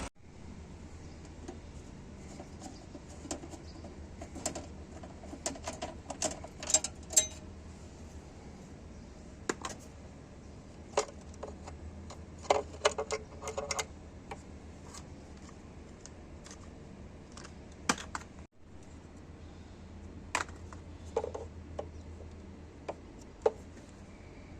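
Scattered sharp clicks and light metallic clinks, in irregular clusters, over a low steady hum.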